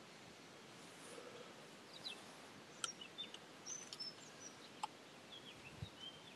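Faint birdsong: scattered short, high chirps from small birds over a quiet background hiss, with two faint clicks.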